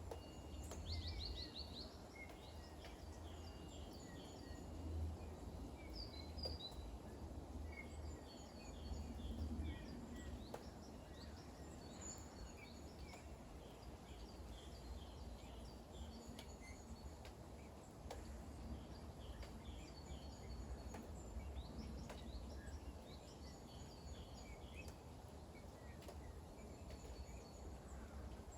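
Faint outdoor ambience of many small birds chirping in short, scattered calls over a low, steady rumble.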